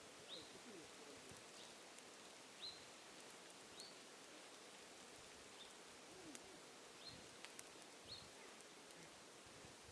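Quiet outdoor ambience with a bird repeating short, high call notes about once a second, and a few faint ticks.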